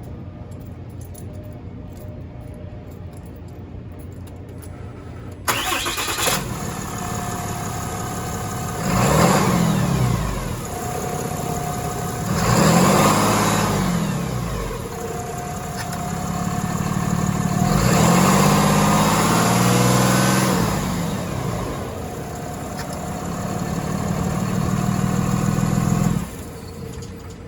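2023 Ram 2500 pickup engine cranked and catching about five seconds in, then idling and revved four times, the longest rev near the middle, before it is switched off about a second before the end.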